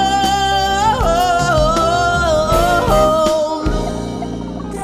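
A singer holds long, wavering high notes with quick vocal runs over a backing track; the voice stops about three and a half seconds in, leaving the backing music.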